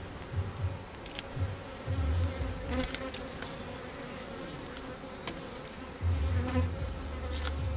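Honeybees buzzing around an open hive, the buzz swelling louder about six seconds in, with a few light clicks and knocks.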